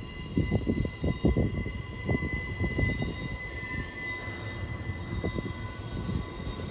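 Double-stack intermodal freight cars rolling past on curving track. There is a low rumble with irregular clunks, and over it a thin, steady high squeal that is strongest in the middle, typical of wheel flanges grinding on a curve.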